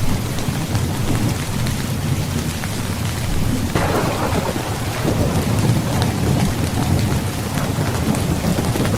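Steady heavy rainfall with a continuous low thunder rumble. A little under four seconds in, a sharper thunderclap breaks in and rolls away over a second or so.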